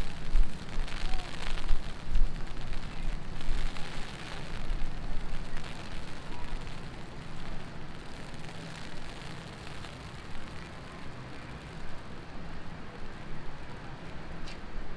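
Heavy rain falling on a city street, a steady hiss with drops pattering. Low rumbles come in the first few seconds, then ease off.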